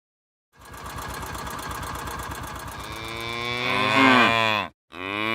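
A cow mooing: a long bellow that begins as a rough pulsing grunt, rises into a loud pitched moo and falls away, breaking off about four and a half seconds in. A second moo starts right after.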